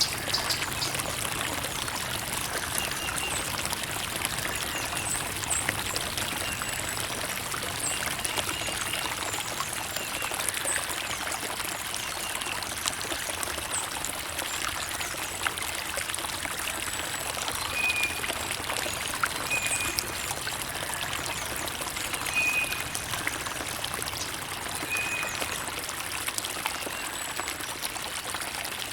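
Creek water trickling and running steadily.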